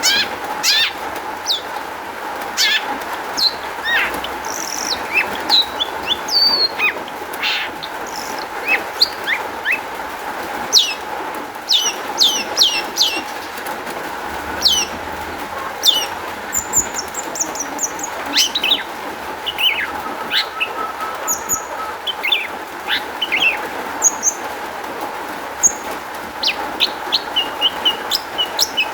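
Long-tailed shrike (cendet) singing a fast, varied song of short sharp chirps and whistles, over a steady background hiss.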